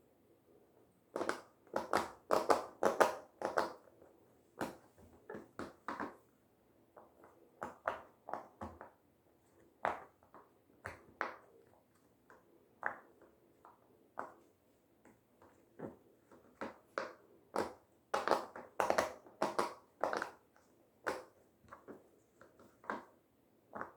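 Silicone pop-it fidget toy being pressed bubble by bubble: a long series of short popping clicks at an uneven pace. Quick runs of pops come near the start and again past the middle, with single pops spaced out between them.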